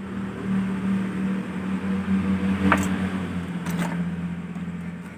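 A steady motor hum that swells and then fades, with a few sharp clicks near the middle.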